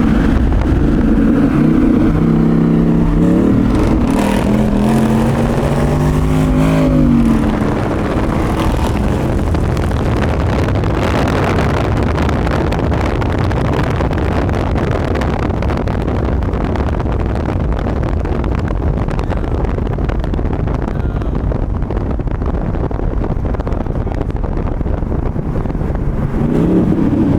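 A car engine revving, its pitch climbing and falling over the first several seconds. It gives way to a loud, steady rushing noise for the rest.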